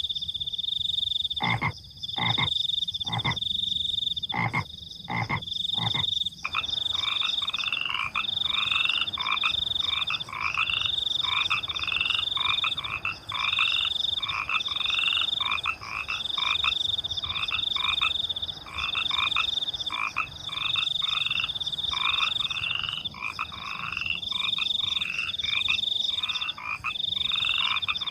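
A night chorus of frogs croaking, with crickets trilling high behind them. In the first six seconds a few deep, separate croaks sound about once a second. After that a dense chorus of quicker, higher croaks takes over, several a second, while the cricket trill keeps pulsing on and off.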